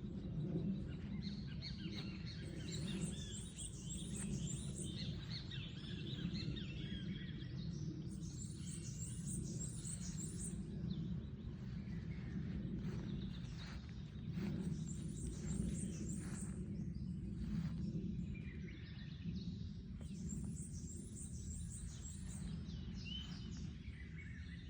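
Birds singing: one bird repeats a quick run of very high notes about every six seconds, with other chirps in between, over a steady low background rumble.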